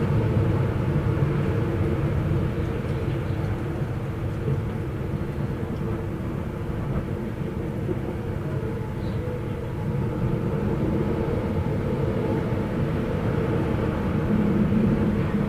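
Steady low rumble of wind blowing, easing slightly in the middle and swelling again near the end.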